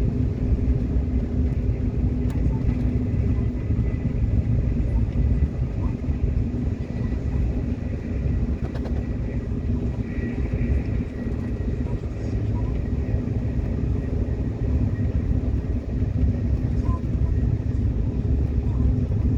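Subway train running along the track: a steady low rumble of wheels on rail with a faint steady whine from the drive motors and a couple of faint clicks.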